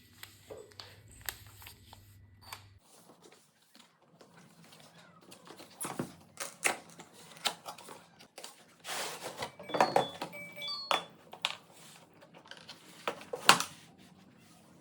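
Irregular clicks, knocks and rustling of hard objects being handled, loudest in a few clusters, with no motor running.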